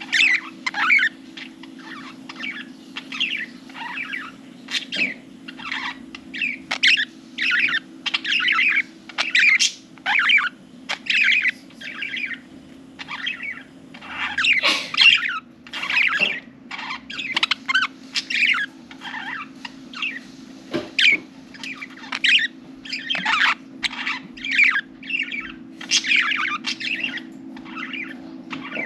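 Several budgerigars chattering and warbling continuously in rapid bursts of chirps, over a steady low hum.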